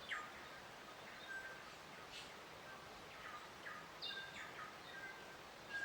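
Faint birdsong: several birds chirping, with short notes and quick downward-sliding calls repeating, over a soft steady hiss of outdoor ambience.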